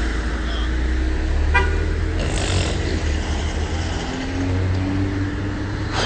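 Motor vehicle running with a steady low rumble, a brief car horn toot about a second and a half in, and a short hiss a moment later.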